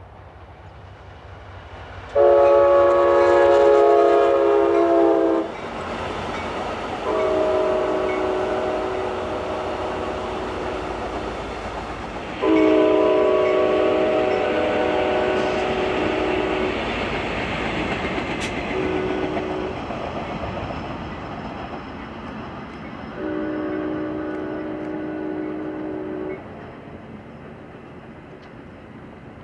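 A passenger train locomotive's multi-chime air horn sounds a series of blasts: a loud three-second one, two more long ones, a short one and a final long one. Between and under the blasts is the steady rumble and wheel clatter of the train passing.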